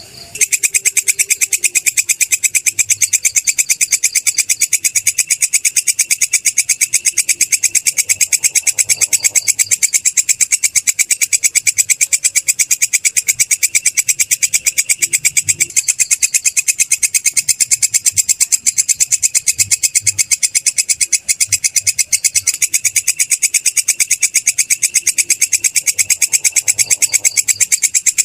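Belalang kecek katydid stridulating: a continuous, rapid, high-pitched trill of pulses that keeps an even rate and level.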